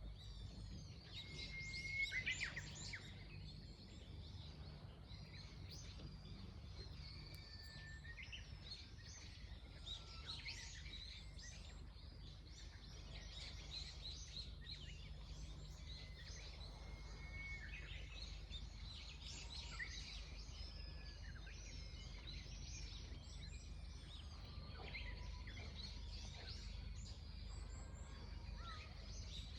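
Many wild birds chirping and singing, short calls and trills overlapping throughout, with a brief louder burst of calls about two seconds in, over a faint steady low rumble.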